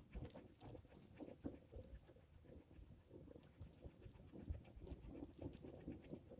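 Faint wood fire crackling and popping in irregular small clicks, with gusts of wind rumbling on the microphone.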